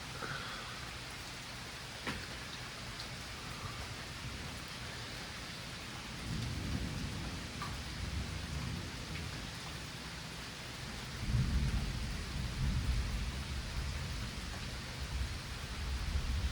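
Steady rain falling with rolling thunder. A low rumble builds about six seconds in, and a louder, longer rumble follows from about eleven seconds in.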